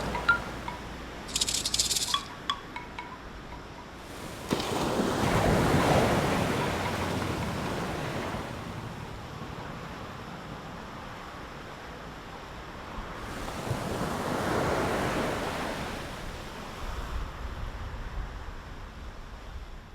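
Ocean surf washing in, two slow swells that rise and fade, with a few faint chime-like tinkles near the start.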